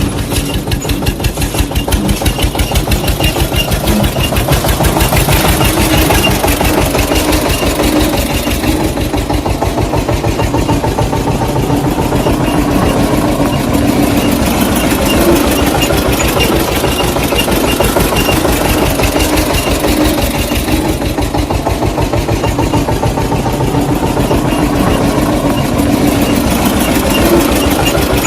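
An engine running at a steady idle with an even, regular beat.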